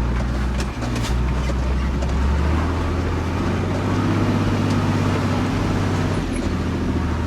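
Truck engine running steadily, its low note stepping up in pitch about two and a half seconds in as the engine speeds up.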